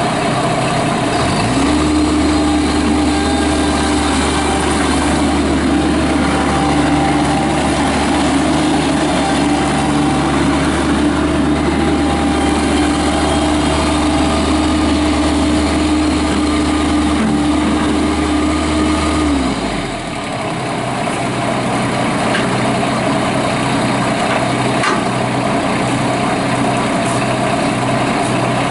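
Kubota diesel engine of a Bobcat MT85 mini track loader running. About a second and a half in, its note steps up to a steadier, heavier sound and holds there. It drops back to a lighter run near twenty seconds in.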